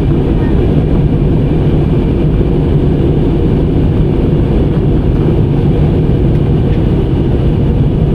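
Steady, even cabin noise of an airliner heard from inside the cabin: a low rush of engine and airflow noise that neither rises nor falls.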